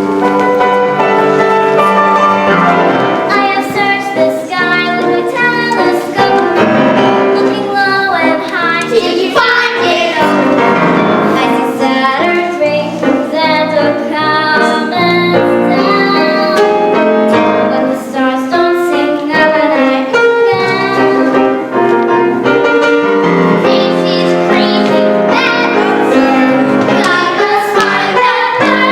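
Children singing a musical-theatre song with piano accompaniment.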